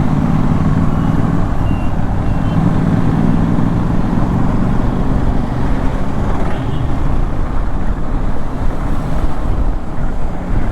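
Motorcycle engine running steadily at riding speed, with a low rumble and heavy wind and road noise.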